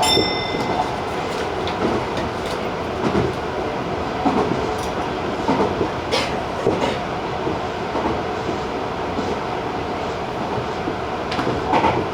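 Tobu TJ Liner electric train running at speed, heard from the front of the train: a steady rumble of wheels and motors with irregular clattering knocks from the track. A brief high-pitched tone sounds right at the start.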